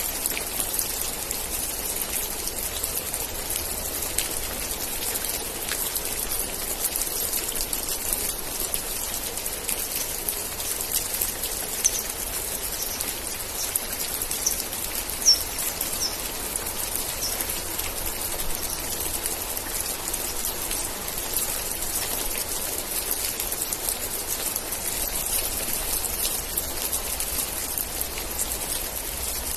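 Steady rain, with individual drops pattering and ticking on surfaces. About halfway through, a bird gives a short run of high chirps.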